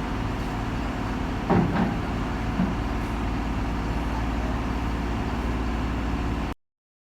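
Heavy diesel engine running steadily, with a sudden loud burst about one and a half seconds in and a shorter one a second later. The sound cuts off shortly before the end.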